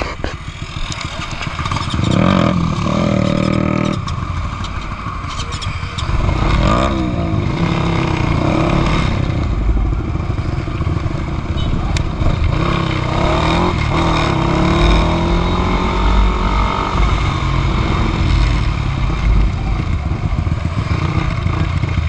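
Modified Honda Winner 150 single-cylinder motorcycle engine under way, its pitch rising and falling several times as the throttle opens and closes.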